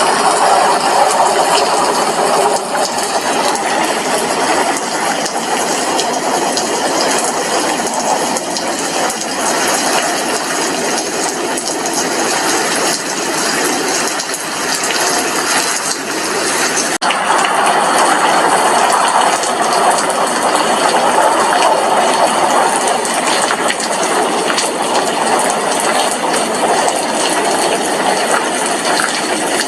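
Steady heavy rain, drops striking a glass window in a dense, even hiss. About seventeen seconds in, the sound changes abruptly, as at a splice, then carries on.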